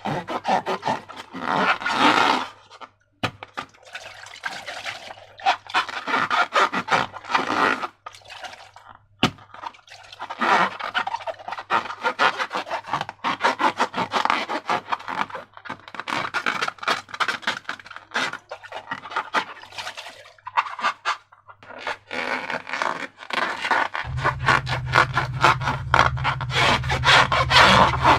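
Slime being squeezed and worked by hand, sticky crackling and squelching in bursts of a second or two with short pauses. A steady low hum comes in near the end.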